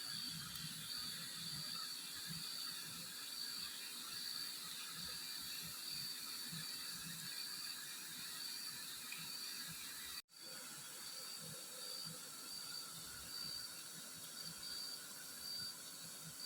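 Steady hiss of riverside night ambience with a continuous high-pitched tone over it. The sound drops out abruptly for an instant about ten seconds in.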